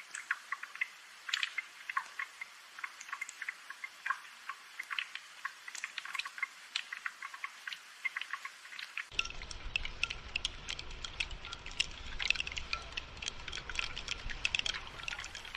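Rain falling as a dense, irregular patter of drips and light taps. About nine seconds in, a low rumble joins it.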